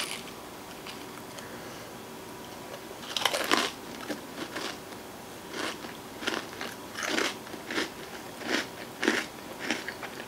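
Crunching and chewing of a mouthful of ice cream topped with fudge-striped cookies and brownie crisps. A loud crunch comes about three seconds in, then a steady run of chewing crunches, a little under two a second.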